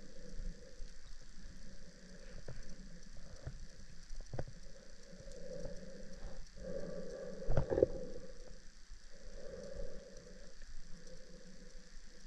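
Underwater drone's thruster motors humming in on-and-off spells, with scattered sharp clicks and a louder knock about seven and a half seconds in.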